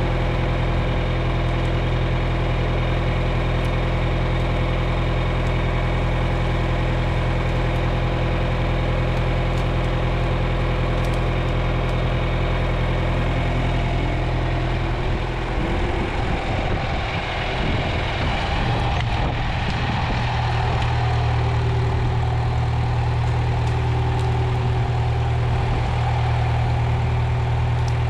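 Tractor engine running steadily. Its speed shifts about fifteen seconds in, wavering for a few seconds before settling at a new, steady note.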